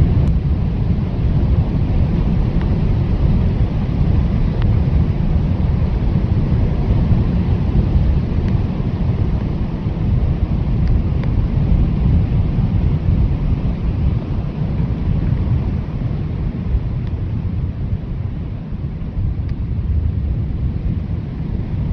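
Blizzard wind blowing steadily, a dense low rumble with a hiss of wind-driven snow above it, easing slightly near the end.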